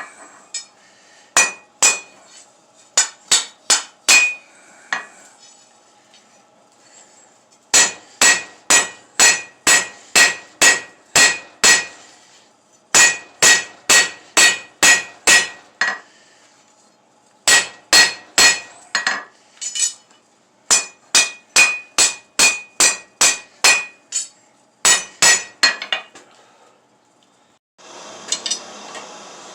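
Hand hammer striking steel on an anvil while forging table legs, in runs of about two blows a second with short pauses between runs. Each blow has a bright metallic ring. A steady rushing noise starts near the end.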